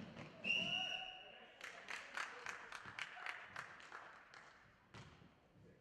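Referee's whistle blown in one short, shrill blast about half a second in, followed by a run of sharp knocks from play on the basketball court.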